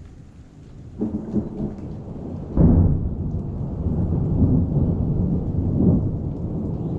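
Thunder in a rainstorm: a low rumble starts about a second in, a sharper, louder clap comes near three seconds, and the rumble rolls on over the rain.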